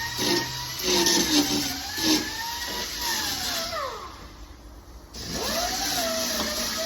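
Grinder grinding down welds on steel bodywork: a high whine with rough bursts of grinding, spinning down about three seconds in, then spinning back up after a short pause.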